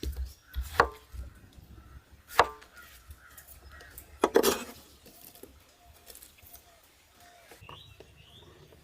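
A knife chopping fruit: a few separate chops about one and a half to two seconds apart, the one about four seconds in the loudest.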